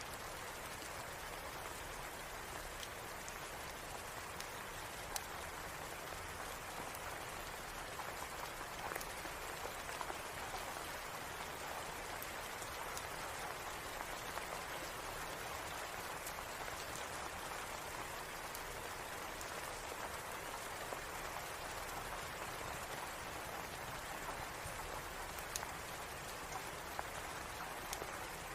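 Steady rain falling, an even hiss of drops, with occasional sharp clicks scattered through it.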